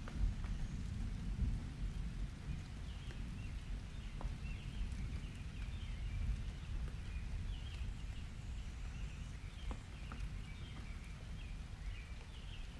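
Summer rain ambience: a low rolling rumble of distant thunder under steady rain, with faint birds chirping over it. The rumble is heaviest near the start, and a few soft ticks from drops come through.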